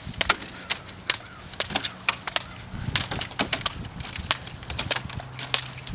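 Raw eggs being cracked one after another on a man's head: a quick, irregular run of sharp shell cracks, about three or four a second.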